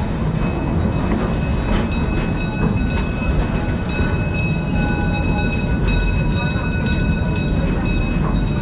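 Serengeti Express park train running along its track, heard from aboard: a steady rumble of wheels and cars with frequent clicks. A set of thin, high-pitched steady tones comes and goes over it.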